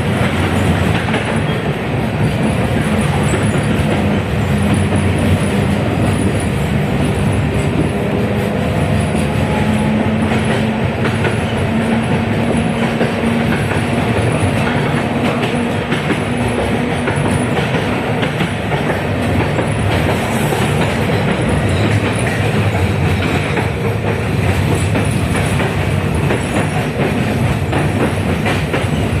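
71-619KT tram running along the track, heard from inside the car: continuous rolling noise with wheels clattering over rail joints. A steady low hum runs through about the first half, then fades.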